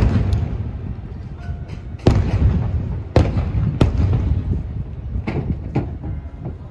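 Aerial firework shells bursting one after another: several sharp bangs, each trailed by a rumbling echo, over a steady low rumble.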